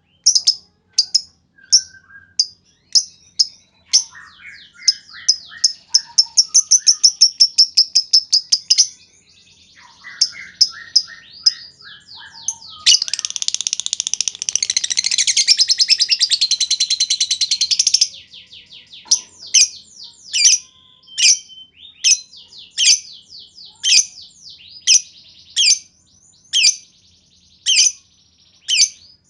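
Lovebird calling: sharp, high chirps repeated about once or twice a second, a fast rattling run of notes around four seconds in, and a long unbroken chattering trill (the lovebird's "ngekek panjang") from about 13 to 18 seconds.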